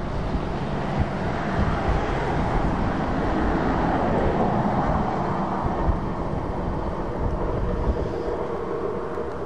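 Diesel-hauled freight train passing: the locomotive's engine running and the train rolling over the rails, a steady noise that is fullest around the middle.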